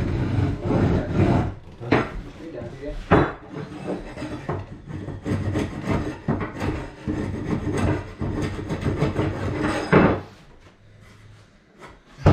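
A wooden subfloor sheet being shoved and worked into place against its neighbour: wood scraping and rubbing on wood, with sharp knocks about two, three and ten seconds in, then it goes much quieter.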